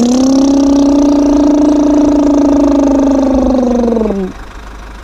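A woman's voice holding one long, drawn-out exclamation for about four seconds, with the pitch dipping as it ends.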